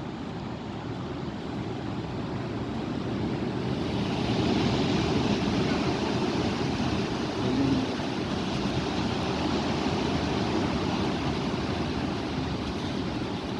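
Strong wind blowing and buffeting the microphone, a steady rush that swells into a stronger gust about four seconds in and holds.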